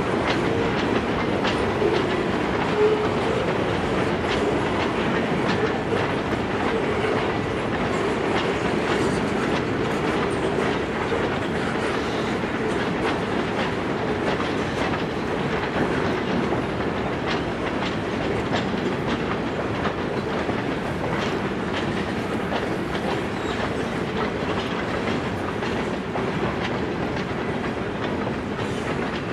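Freight train cars rolling past: a steady rumble of steel wheels on rail, with a rapid run of clicks as the wheels cross the rail joints.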